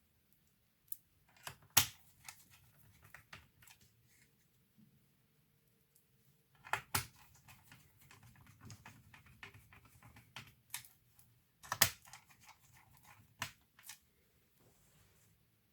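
Laptop parts being handled: a series of sharp clicks and small knocks, with light scraping and rustling between them. The loudest clicks come about two, seven and twelve seconds in.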